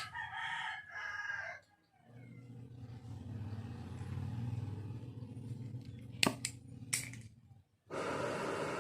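The oxy-acetylene torch's hiss cuts off with a sharp pop, and a rooster crows in two parts. A low hum follows with a few sharp clicks, and about 8 seconds in the torch's steady hiss starts again.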